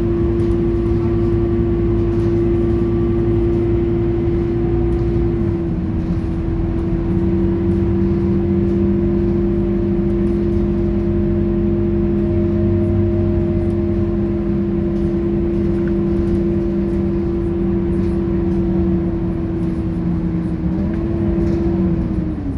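Scania K230UB bus running with a steady mechanical whine held at one pitch. A second, lower whine joins after about six seconds, and near the end the pitch falls as the bus slows.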